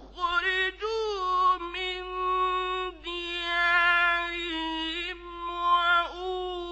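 A man chanting Quran recitation in the ornate mujawwad tajwid style. He holds long, steady notes and ornaments them with melodic turns, broken by a few short pauses.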